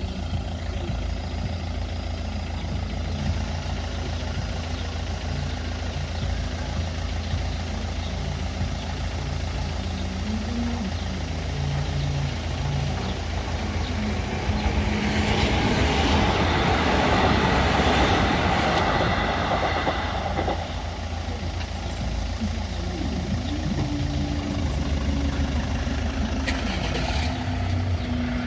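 Road vehicles idling at the level crossing with a low engine rumble, and a vehicle driving past over the crossing about halfway through, loudest for a few seconds.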